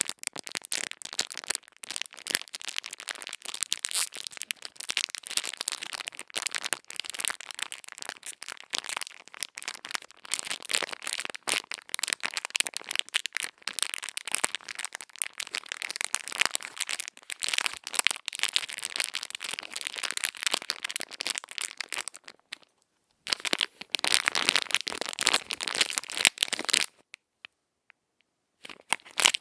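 Crisp crackling and scratching from ASMR ear-cleaning on a microphone, a dense stream of fast small clicks. It stops briefly twice near the end.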